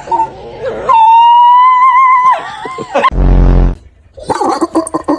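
Dog vocalizing: a long, high, slightly wavering howl-like whine lasting about a second and a half, then a short, deep woof. A rough, rattling noise starts near the end.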